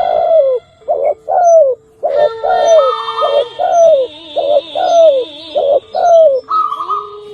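Zebra dove (perkutut) cooing: a rapid run of short coo notes, each falling in pitch, about two a second. Steady held tones sound under it.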